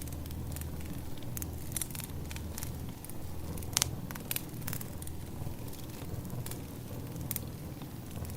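Burning firewood crackling: irregular sharp pops and snaps over a low steady rumble, the loudest pop a little before halfway.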